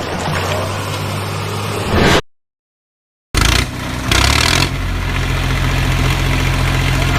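Engine sound of a model tractor or truck running steadily at idle, cut off by about a second of complete silence a little over two seconds in, then running on.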